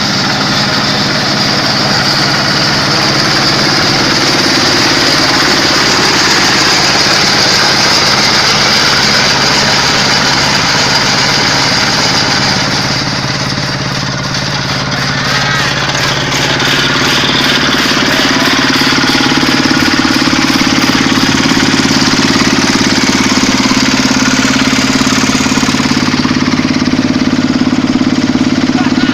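Quick H-140R combine harvester's Kubota diesel engine running steadily and loudly. The sound dips briefly about halfway, then its note settles a little higher.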